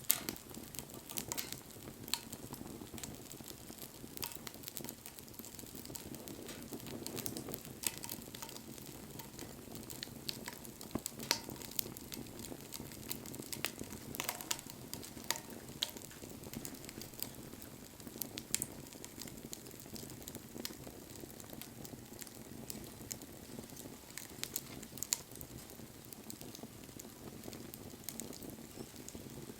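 Wood bonfire burning: irregular sharp crackles and pops over a steady low rush of flame.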